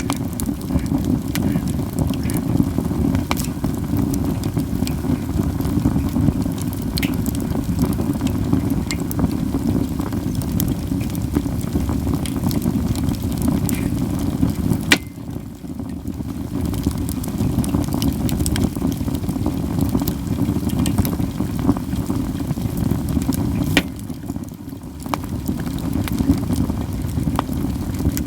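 Katsura wood fire crackling steadily, with frequent sharp snapping pops, over a steady low rumble; the rumble drops away briefly twice, just after the middle and near the end.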